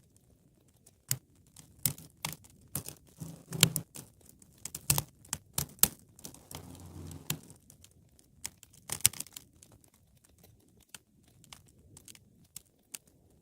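Wood fire crackling in a fireplace: irregular sharp pops and snaps, thickest in the first half, with a brief low rush of burning about seven seconds in.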